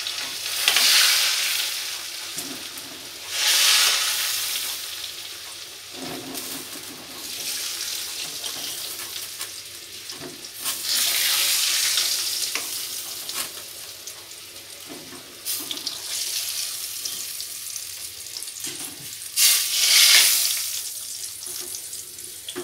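Fried potato pieces sizzling in hot ghee in a kadhai. Several louder bursts of hissing and splashing come as ladled pieces are lifted out and dropped into a pan of hot water.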